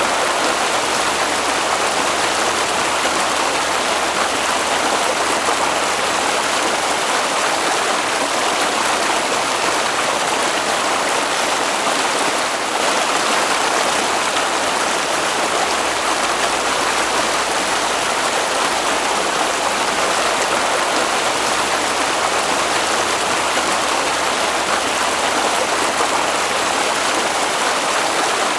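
Flowing stream water: a steady, even rush.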